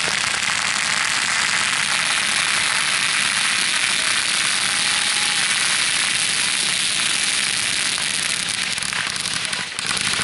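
Fireworks crackling densely and continuously, an unbroken wash of fine crackle that dips briefly near the end before picking up again.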